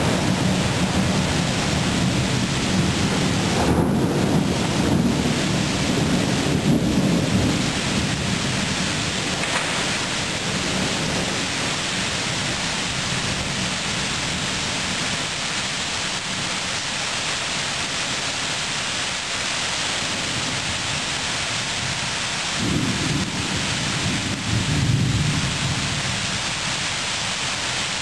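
Thunderstorm: rain hissing steadily while a rumble of thunder rolls on and dies away over the first several seconds. Near the end another thunder rumble starts suddenly and lasts a few seconds.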